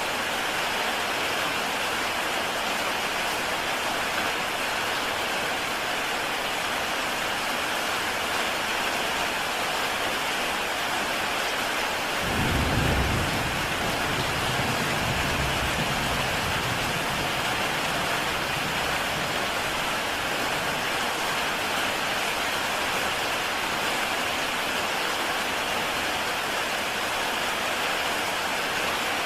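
Heavy rain falling steadily on a tile roof, an even hiss. About halfway through, a low rumble of thunder starts suddenly and fades away over a few seconds.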